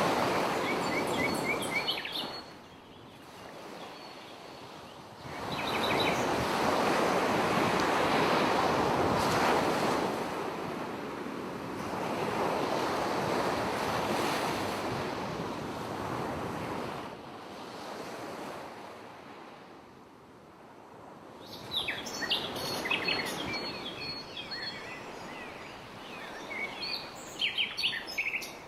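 Sea waves washing in and drawing back, the noise swelling and fading every few seconds, with short high chirping calls near the start and through the last several seconds.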